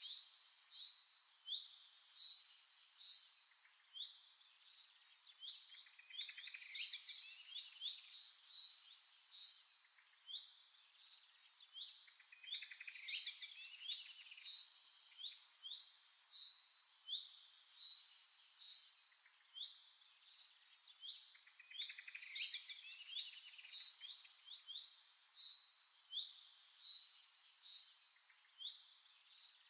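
Songbirds chirping and trilling in high, rapid phrases that recur about every five seconds.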